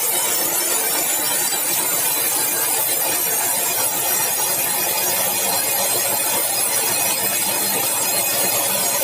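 Sawmill saw running: a loud, steady noise strongest in the high treble, with no breaks.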